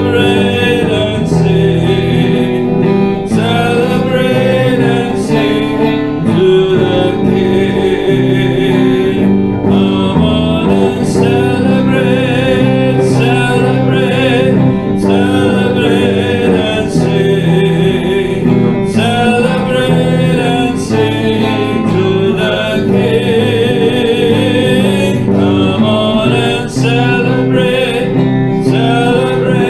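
Worship band music led by guitar, played continuously at a steady level.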